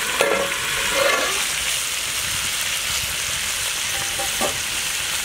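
Chicken pieces sizzling in oil and their own juices in a large metal pot over a wood fire, a steady hiss. A metal lid clanks as it is lifted off in the first second, and something knocks lightly once near the end.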